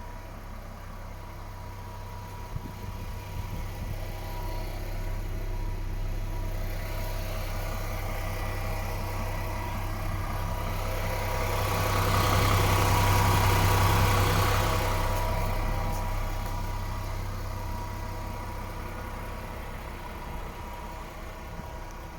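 DAF XF 480 truck's PACCAR MX-13 six-cylinder diesel engine idling at a steady pitch. It grows louder toward the middle and fades again.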